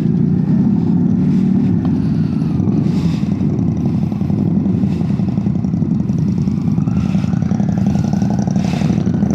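Motorcycle engine running steadily while riding: a continuous low drone that holds even throughout.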